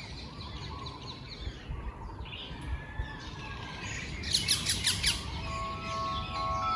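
Songbirds chirping, with a loud, fast trill of downward-sweeping notes about four seconds in. Wind chimes begin ringing near the end.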